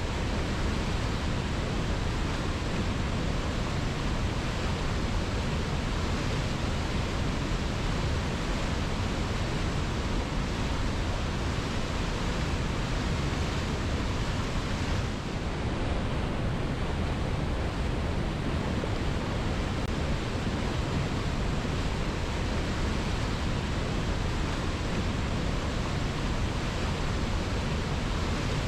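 Waterfall: a steady, even rush of water falling onto rock, with a brief slight dip in level about halfway through.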